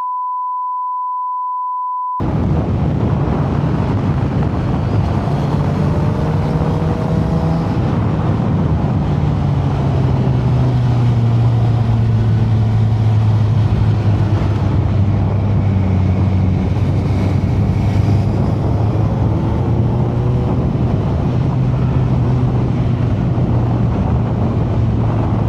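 A steady electronic beep for about two seconds, with all other sound cut out. Then a motorcycle engine running at a steady cruise, its pitch drifting slowly up and down, under constant wind rush on the microphone.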